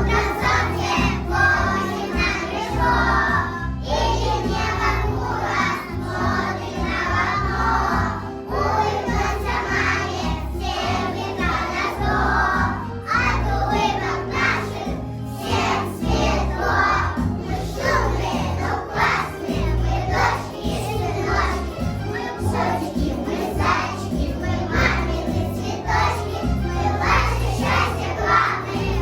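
A children's choir singing a song over a musical accompaniment with a steady bass line.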